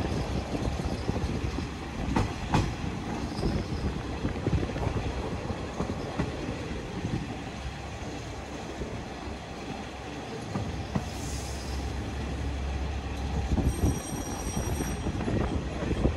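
KiHa 40 diesel railcar rolling slowly through a station yard, heard through an open window: a steady running rumble, with a few sharp clacks of the wheels over rail joints and points about two seconds in, and a brief high wheel squeal near the end.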